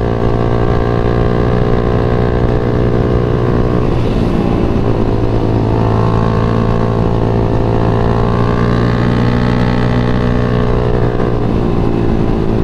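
Yamaha MX King 150's single-cylinder four-stroke engine running steadily under way. Its note breaks up briefly about four seconds in, and a higher tone rises and falls between about six and eleven seconds.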